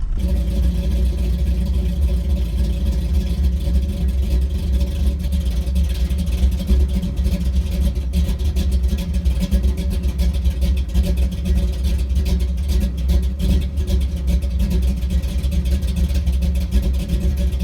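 Cammed Chevy small-block V8 in a 1983 C10 idling steadily with a lopey, choppy cam idle, just after a hard cold start on a carburetor with no choke. The engine is now staying running on its own.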